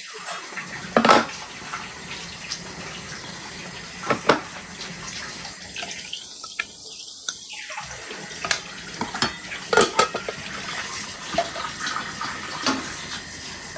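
A steady rush of water with scattered clinks and knocks of dishes and cutlery, the sharpest about a second in and around ten seconds in.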